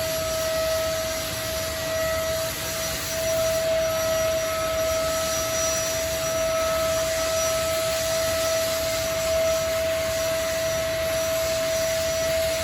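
Power sander running steadily with a constant high whine over a hiss, sanding the primer surfacer on a car body panel.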